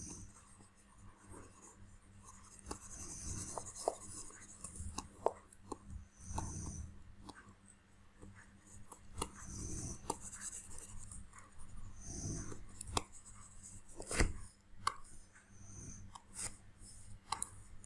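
Faint scratching strokes of a stylus on a drawing tablet while sculpting, with a few sharp clicks scattered among them.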